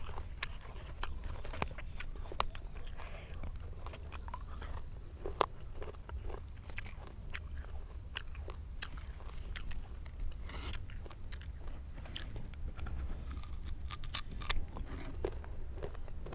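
A person biting into and chewing firm, raw guava, with sharp, irregular crunches throughout.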